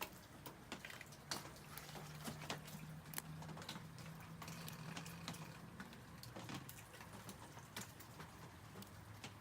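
Rain falling: faint, irregular drops tapping on surfaces, with a faint low hum for a few seconds in the first half.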